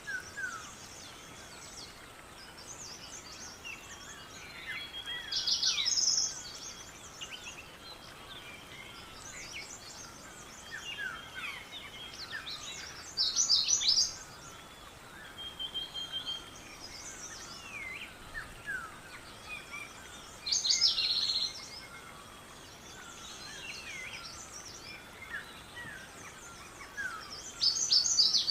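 Several birds singing and calling. One bird repeats a loud, short song phrase about every seven to eight seconds, four times, with many softer chirps from other birds in between and a faint steady high tone underneath.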